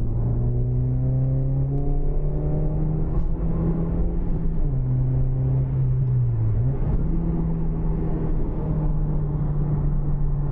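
Toyota Yaris T-Sport's four-cylinder engine heard through a homemade stainless steel cat-back exhaust with a silencer, pulling under way with the engine note climbing slowly. The pitch drops about four and a half seconds in, sags, then jumps back up about seven seconds in.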